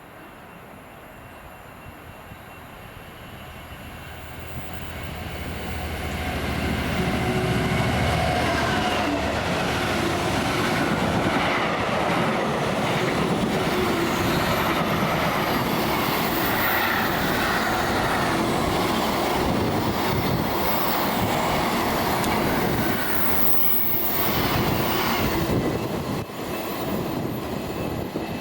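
A train approaching and passing on the main line: the rolling sound of wheels on rails grows over the first several seconds, stays loud and steady for most of the time, then eases off near the end.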